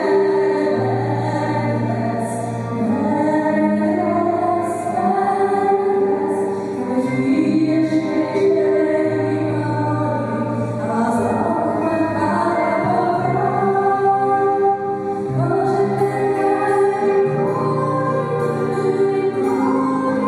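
Celtic folk song performed live by a small acoustic ensemble, a female voice singing over violin, guitar, harp and transverse flute, with held low notes under a flowing melody.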